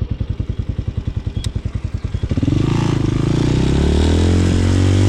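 Hawk 250's single-cylinder four-stroke engine chugging at low revs, each firing pulse distinct. About two seconds in the throttle opens and the engine pulls, the revs rising into a steady, louder run with wind rushing past the helmet.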